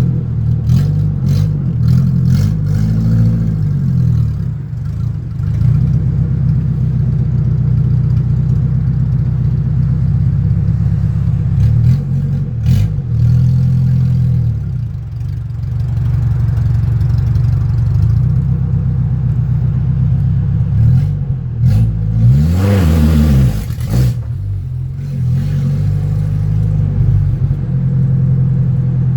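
A car's engine running under way, its pitch rising and falling several times with throttle and gear changes. A louder surge a little past two-thirds through briefly brings a rush of higher noise.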